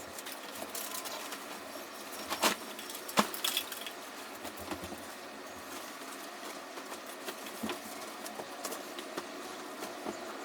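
Household objects being handled while tidying up: scattered light clicks and knocks over a steady faint hiss, with two sharper knocks about two and a half and three seconds in.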